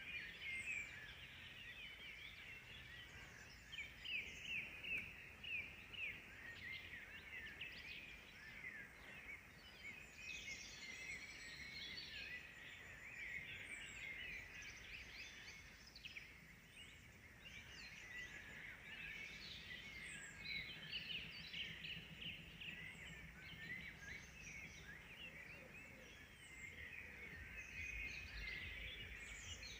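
A faint, dense chorus of songbirds: many quick, overlapping chirps and twitters.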